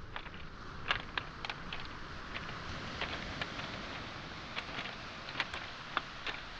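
Footsteps on a pebble beach: stones clicking and knocking sharply underfoot at irregular intervals, over a steady wash of sea waves.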